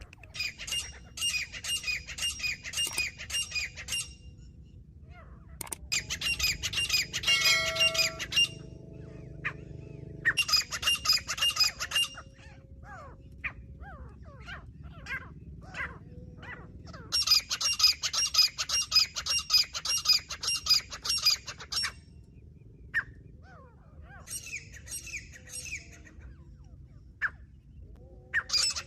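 Teetar (francolin) calling: about six loud bursts of rapid, harsh repeated notes, each lasting a few seconds, with short pauses between.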